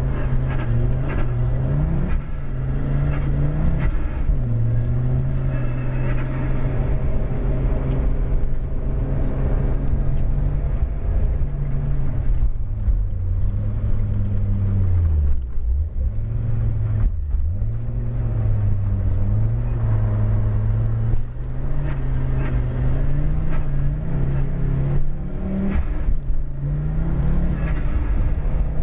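Audi car engine heard from inside the car, revving up and down through gear changes under hard driving. The pitch drops sharply twice about halfway through.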